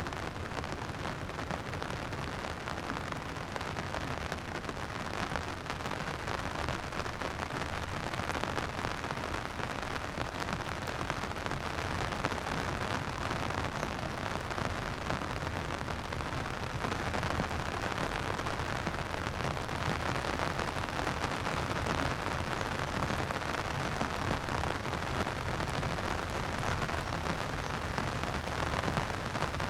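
Steady rain falling and pattering on surfaces, a dense even hiss.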